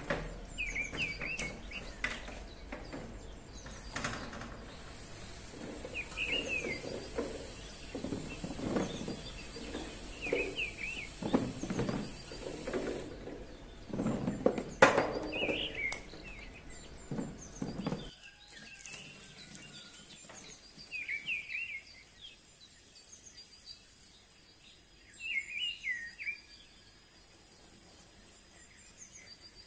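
A songbird repeats a short chirping call every few seconds. Through roughly the first two-thirds, rustling and dull knocks run underneath the calls; then they stop and only the bird calls continue.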